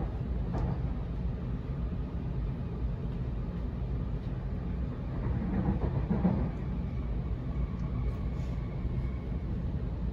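Interior running noise of a Sydney Trains Waratah electric train in motion: a steady low rumble of wheels on rail that swells louder around the middle, with a faint high steady tone in the later part.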